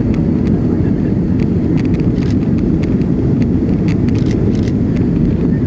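Steady cabin roar of a jet airliner in flight after takeoff: engine and airflow noise heard from inside the cabin, with faint scattered clicks over it.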